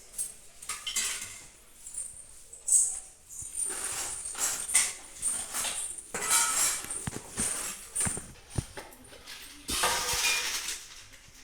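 Spoons and dishes clinking and clattering as they are handled, a run of irregular knocks and scrapes.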